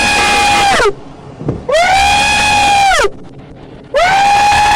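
A man screaming and wailing in three long high-pitched cries, each rising, held steady, then falling off at the end.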